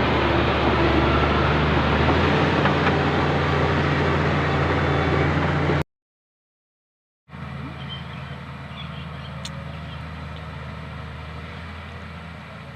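Bulldozer's diesel engine running steadily, loud and close; it cuts off abruptly a little past halfway, and after about a second and a half of silence the engine sound returns, quieter.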